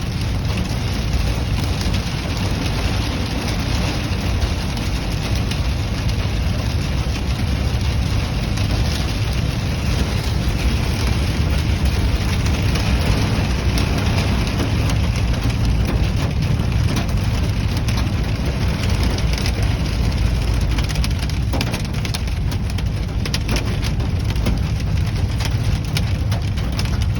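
Heavy rain mixed with small hail drumming steadily on the car's roof, heard from inside the cabin as a dense patter of fine ticks, over the car's low rumble.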